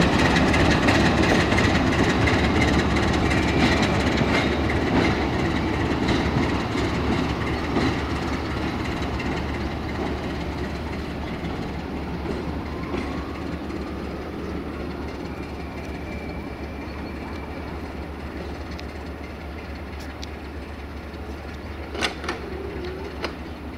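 A locomotive running along the track below and moving away, its wheels clacking over the rail joints, the sound fading steadily as it recedes. A couple of sharp clicks come near the end.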